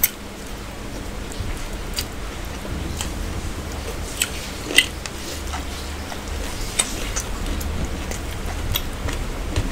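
Close-miked chewing and wet mouth smacks of people eating rice, fish and curry by hand. Sharp clicks of lips and teeth come every second or two over a low steady hum.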